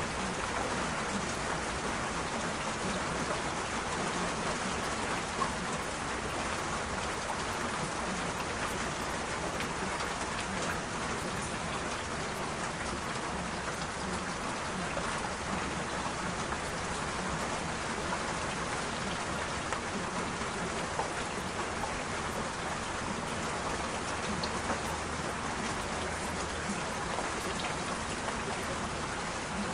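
Steady rain falling, an even hiss with small drop ticks and a few slightly louder drops.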